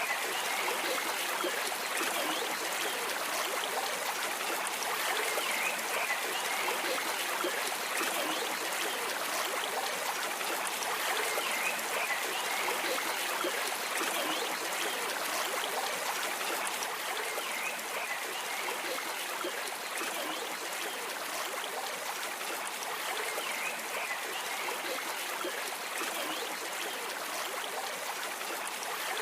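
A stream of water flowing and trickling steadily, with a continuous even babble.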